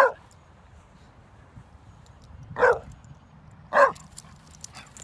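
A dog giving three short barks during play, one right at the start, one about two and a half seconds in and one near four seconds.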